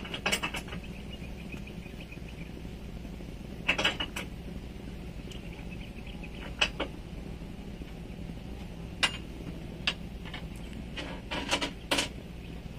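Irregular clinks and knocks of tools and metal parts being handled, about a dozen over several seconds, over a steady low hum.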